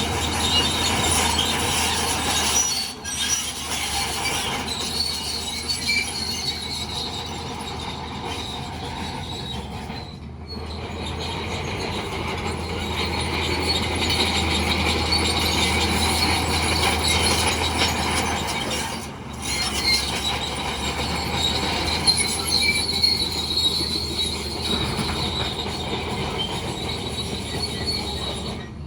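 Bulldozer running under a steady engine drone, its steel crawler tracks squealing and clanking as it moves. The sound drops out briefly three times.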